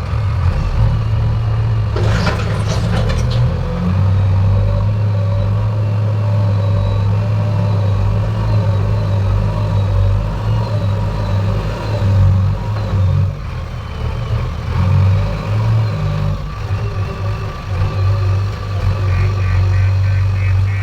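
Heavy diesel engine of earth-moving machinery running steadily under working load, with a burst of clattering about two seconds in and some rise and fall in level later on.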